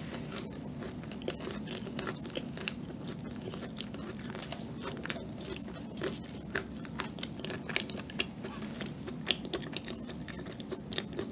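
Close-miked chewing of a cucaron, a macaron built on a cookie base that is crisp below and chewy on top. Many small crunches and mouth clicks come through as it is chewed.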